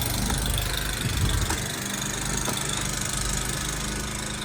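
An engine running steadily at idle, with a few faint clicks or scrapes over it.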